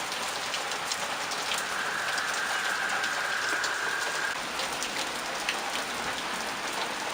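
Steady rain falling, with many separate drops ticking on hard surfaces. A faint steady high tone sounds for about three seconds in the middle.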